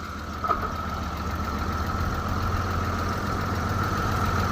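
Tractor engine running steadily and growing gradually louder, with one short click about half a second in.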